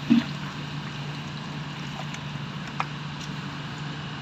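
Steady low background hum and noise, with a short voice-like sound just after the start and a faint click nearly three seconds in.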